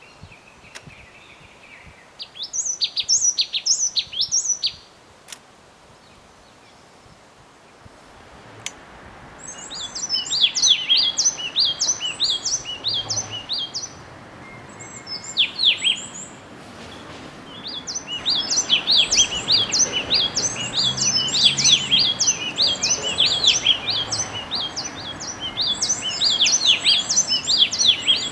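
Small songbirds chirping: quick runs of short, high chirps in bouts, the first starting about two seconds in and lasting a couple of seconds, then longer, busier bouts after a short lull.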